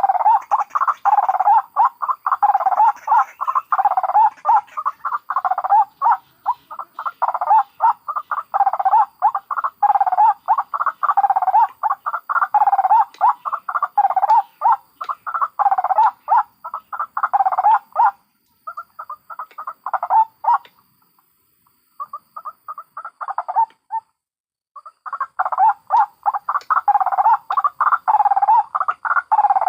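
White-breasted waterhens calling: a dense run of quickly repeated notes, thinning to a few scattered calls with short silences about two-thirds of the way through, then picking up again near the end.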